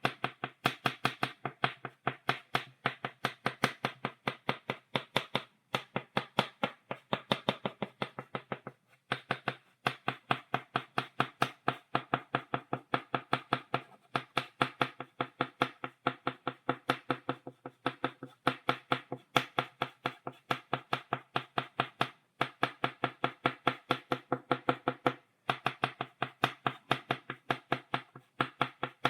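Chalk tapped rapidly against a blackboard, dotting it: a fast, even run of sharp taps, several a second, broken by a few brief pauses.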